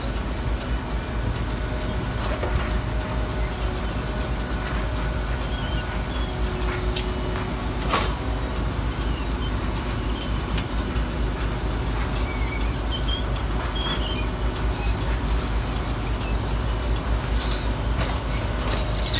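Garbage truck engine running steadily, a low rumble, with a brief knock about eight seconds in.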